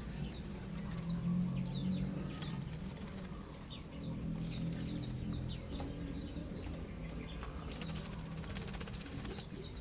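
Caged songbirds giving short, high, down-slurred chirps, several a second at irregular intervals, over a faint low hum.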